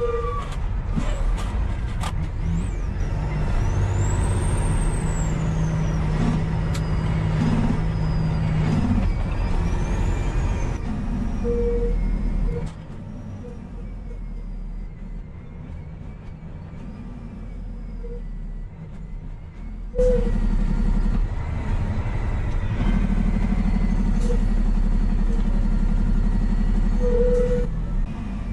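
Heavy truck engine and road rumble, with a high pitch that rises and falls a few seconds in. The sound drops suddenly about halfway through and comes back loud a few seconds later.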